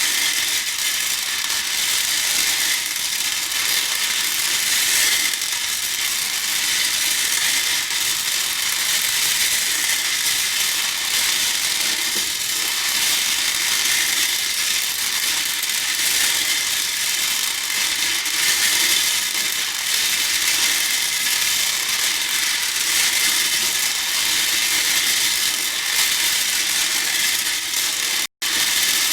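Plastic hair beads clattering in a bowl as they are stirred and poured: a dense, continuous stream of fine rattling clicks, broken by a split-second gap near the end.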